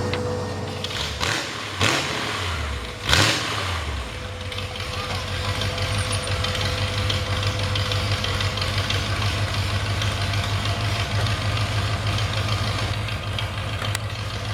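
A vehicle engine idling with an uneven beat, broken about two and three seconds in by two sharp bangs and some brief shifts in engine pitch.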